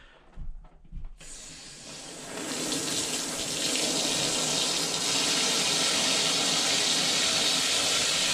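A few light knocks, then water from the supply valve gushes out through a washing machine fill hose. It starts about a second in, builds quickly and holds as a steady rush as the hose is flushed clear of sediment.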